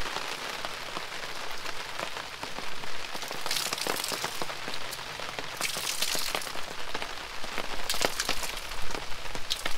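Rain pattering on a tarp awning overhead, a steady hiss full of irregular drop ticks. A few louder hissing surges come about four, six and eight seconds in.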